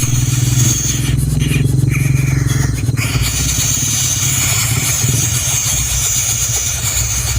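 Engine-like low rumble running steadily, with a steady high-pitched whine over it and a short higher tone partway through.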